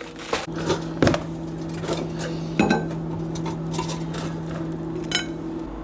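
Kitchen clatter: dishes and cutlery clinking, with a few knocks, over a steady low electrical hum that stops near the end.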